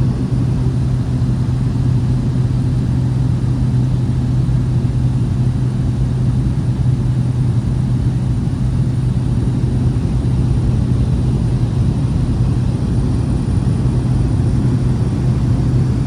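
Steady drone of a light propeller aircraft's engine, one low hum held unchanged throughout.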